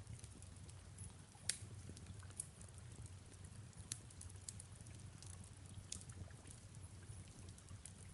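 Faint fireplace crackling, scattered pops with one sharper pop about one and a half seconds in, over a soft, steady rain.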